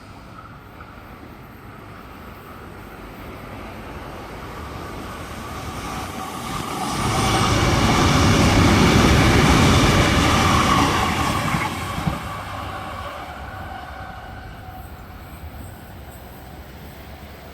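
A train passing at high speed. The rail noise builds over several seconds, is loudest for a few seconds in the middle, and then fades, with a sharp click as it dies away.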